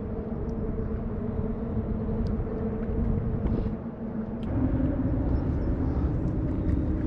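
Steady drone of a distant engine, a low hum with a rumble beneath it, which changes pitch slightly about four and a half seconds in. A few faint clicks sound over it.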